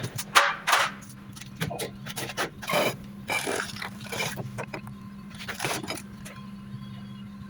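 Irregular scraping and rubbing strokes on steel bodywork over a steady low hum. The scraping stops about six seconds in.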